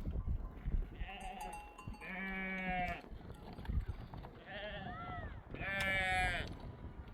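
Sheep bleating: four wavering calls of about a second each, the second and fourth the loudest.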